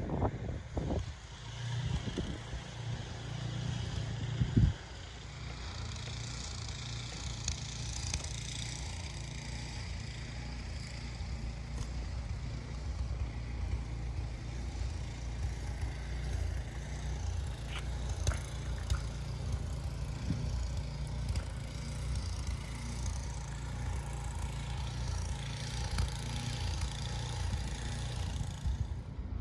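Steady low vehicle rumble with hiss, with a few sharp knocks in the first five seconds.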